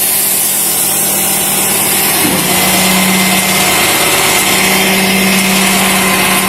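A vehicle engine running at idle close by, with a steady hum that comes in with a brief rise about two seconds in and then holds level over a constant hiss.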